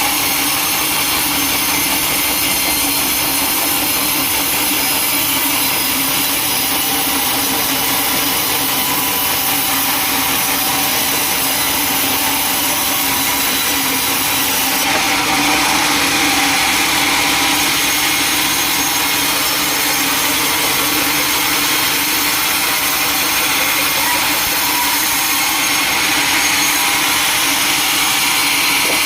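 Sawmill saw and machinery running steadily, cutting wood, with a slight change in tone about halfway through.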